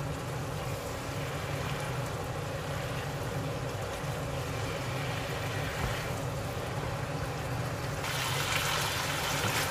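Minced meat frying in a wok, sizzling steadily as it is stirred with a wooden spatula; the sizzle grows louder and brighter about eight seconds in. A steady low hum runs underneath.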